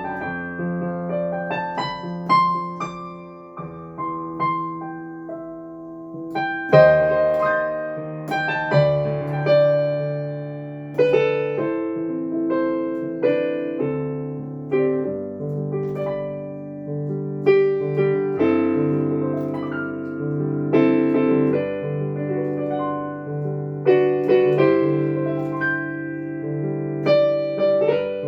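Piano music played without singing: struck chords and melody notes ringing over held bass notes, at an unhurried pace.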